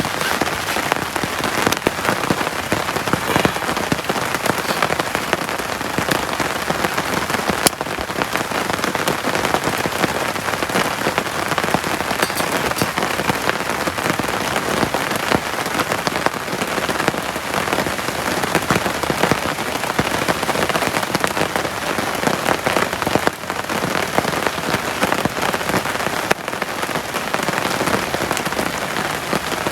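Heavy rain falling steadily: a dense, even patter of drops striking close by, with one sharper tick about eight seconds in.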